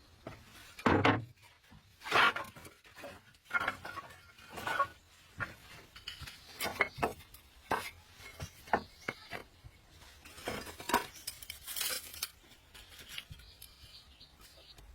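Cookware and utensils clinking and knocking irregularly during campfire cooking, the loudest knocks about one and two seconds in.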